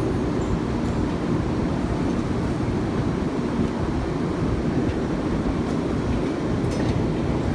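Taiwan High Speed Rail train running, a steady rumble and rushing noise with a faint hum.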